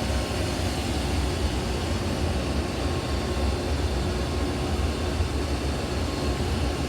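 Steady roar of car wash machinery with a deep rumble underneath.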